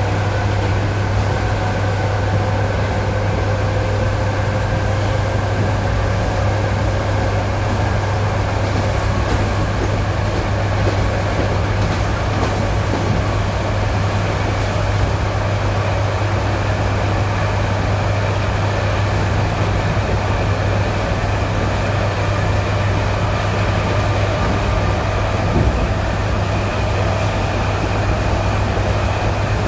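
ED9E electric multiple unit running on the line, heard from inside: a steady deep hum and rumble of wheels on rail, with the traction motors' whine rising slowly in pitch as the train gathers speed.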